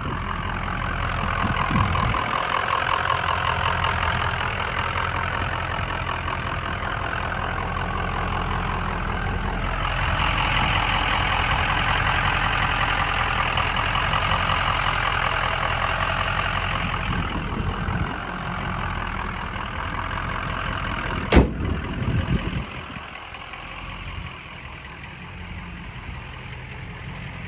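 A Ford 6.0 Powerstroke turbo-diesel V8 idling steadily. A single sharp knock comes about two-thirds of the way in, and the engine sounds quieter after it.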